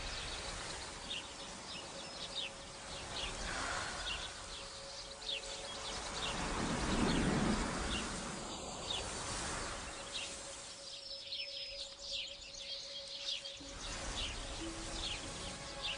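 Birds chirping, many short descending chirps over a steady outdoor hiss, with a swell of low rushing noise around the middle.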